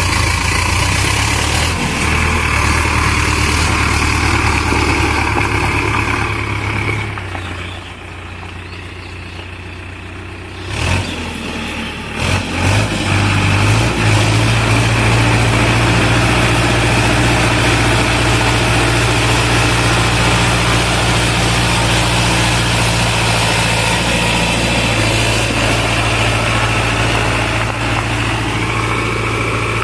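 Sonalika Tiger tractor's diesel engine running under the load of a trolley. Its note drops and quietens about a third of the way in, then picks up again with a few short surges and runs louder and steady for the rest.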